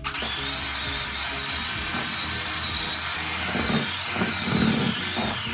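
Electric hand mixer running steadily through thick cookie dough, its motor whine wavering slightly in pitch.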